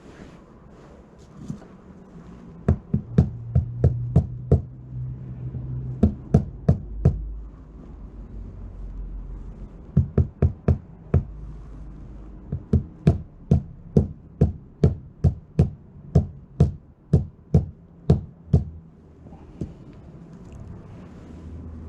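A series of sharp knocks, about two a second, in several runs with short pauses between them, over a faint low steady hum.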